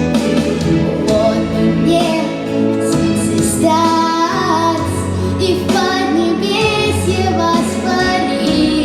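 A girl singing a melodic song in held, gliding notes over an instrumental backing track.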